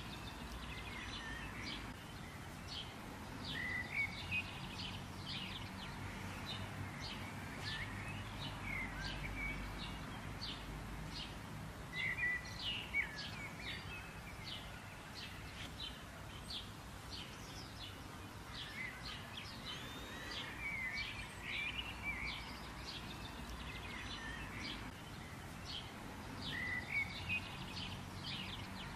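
Small birds chirping, a run of quick, sharp notes with a few short rising and falling calls, over a steady low outdoor background noise.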